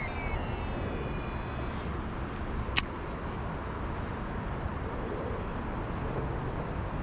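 Steady outdoor background noise with a faint high whistling tone in the first two seconds and one sharp click about three seconds in.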